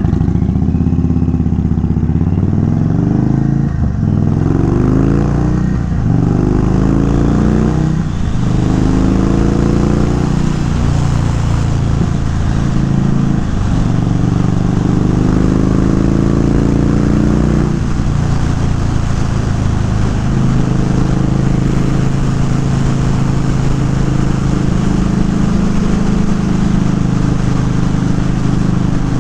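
A 2022 Indian Chief Dark Horse's Thunderstroke 116 V-twin, running through an unbaffled Dean Speed Rampage exhaust, accelerating hard. It revs up through about five gears, with a short dip in pitch at each upshift, then settles into a steady cruise from about two-thirds of the way in.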